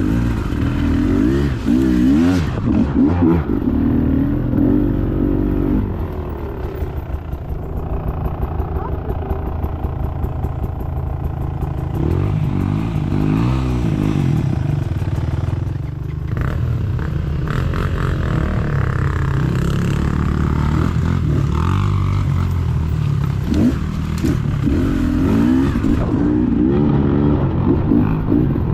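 Dirt bike engine being ridden, its revs rising and falling several times as the throttle is worked, with rattling clatter.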